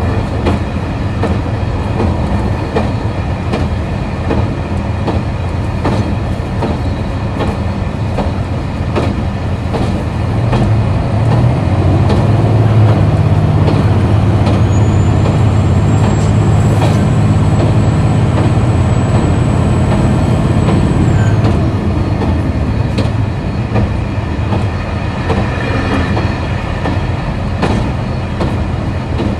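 Diesel engine of a KiHa 261 series diesel railcar running steadily while the train travels, with wheels clicking over the rails. About ten seconds in the engine gets louder and stays so for about ten seconds. A thin high whine sounds during the louder stretch, and then the engine drops back.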